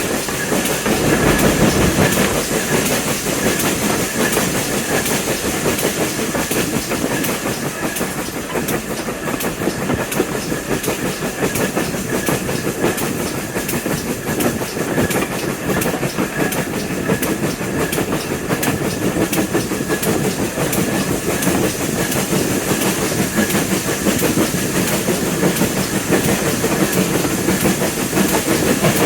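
A heritage railway train running steadily along the track, its wheels clicking over the rails with a continuous rumble and a thin steady high tone.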